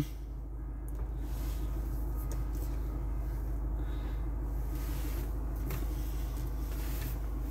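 Steady low rumble of the Mercedes-Benz E 220d's four-cylinder diesel engine idling, heard from inside the cabin, with a faint click a little after halfway.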